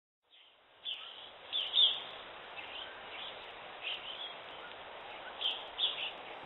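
Birds chirping in short, repeated calls over the steady rush of a river.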